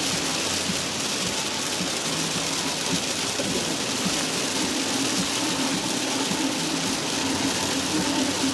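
Heavy rain pouring down in a steady hiss, with a faint low hum underneath in the second half.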